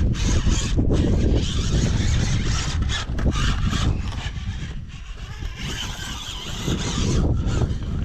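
Wind buffeting the microphone, a heavy low rumble that rises and falls, with patches of gusty hiss.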